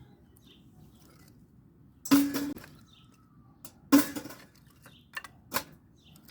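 Pieces of firewood dropped into a metal camp stove: four clunks with a brief metallic ring, the first two loudest.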